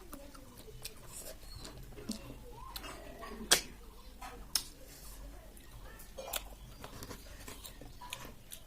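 Close-up eating sounds from a meal of snail curry: irregular sharp clicks and taps with chewing. The sharpest click comes about three and a half seconds in.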